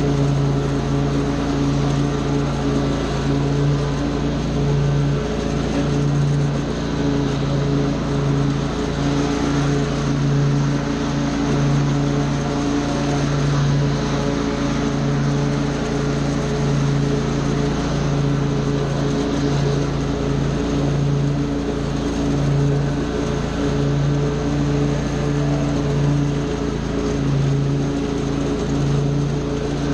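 Small gasoline engine of outdoor power equipment running steadily at working speed, with a loud, even hum that wavers slightly in strength.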